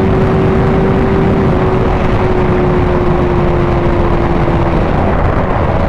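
Sport motorcycle engine running at highway cruising speed under heavy wind rush on the camera microphone, its note holding steady and easing slightly lower, then rising to a higher note right at the end.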